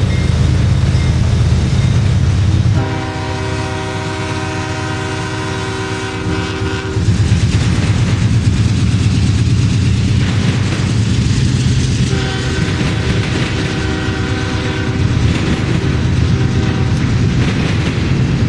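CSX intermodal freight train rolling past close by, its flatcars of semi-trailers making a steady low rumble on the rails. A locomotive horn sounds two long blasts over it, about three and twelve seconds in, each lasting four to five seconds.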